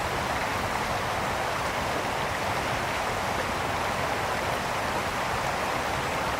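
Mountain brook rushing steadily over stones, a continuous even babble of flowing water.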